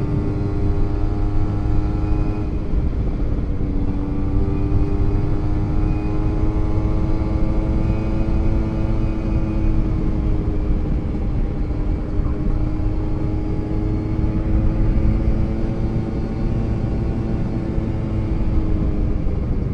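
Kawasaki Ninja 150 two-stroke single-cylinder engine running at a steady cruise under way, its pitch drifting slightly up and back down, with low wind rumble on the rider's microphone.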